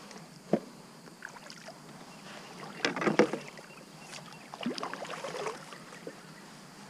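Knocks and water sounds from a plastic sit-on-top fishing kayak (a Vibe Sea Ghost 130) as it is moved and handled on the water: a single sharp knock about half a second in, a louder cluster of knocks and splashing about three seconds in, and softer scattered knocks a couple of seconds later.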